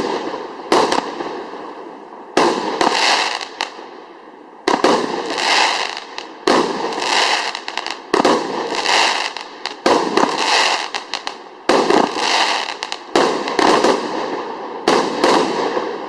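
A 36-shot consumer firework cake with 30 mm tubes firing its shots: about nine sharp bangs, spaced one to two seconds apart. Each bang is followed by a second or two of crackling that fades away.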